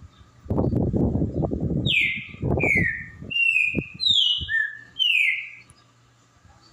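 Green-winged saltator (trinca-ferro) singing a phrase of about six clear whistled notes, most sliding downward, starting about two seconds in. Before the song and under its first notes there is a low rumbling noise.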